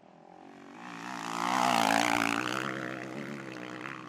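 A motocross bike's engine running hard, its pitch wavering, growing louder to a peak about halfway through and then fading as the bike passes.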